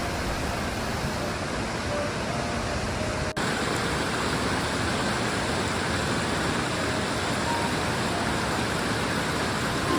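Waterfall: the steady rush of falling water, with a brief break about three seconds in.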